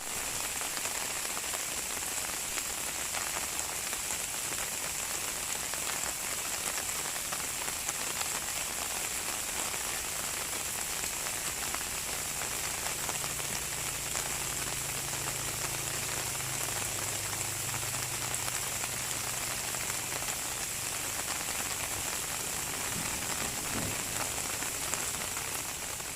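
Steady rain falling on a surface, an even hiss. A faint low hum joins in about halfway and drops away several seconds later.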